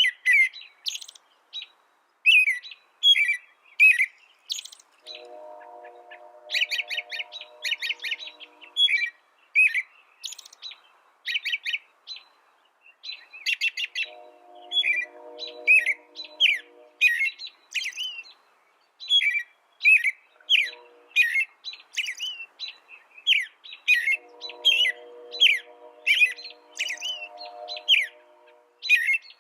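A small finch singing: fast, repeated chirps broken by rapid trills, with no pause longer than a moment. A low, steady hum comes in and out underneath several times, each time for a few seconds.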